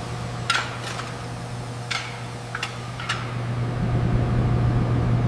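Steady low machinery hum with five sharp clicks in the first three seconds; the hum grows louder about two-thirds of the way in.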